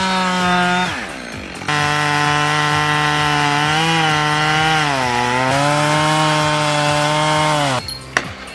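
Two-stroke chainsaw running at high revs while cutting a large tree, its pitch sagging as the chain bites. It drops off briefly about a second in, runs again, and winds down near the end.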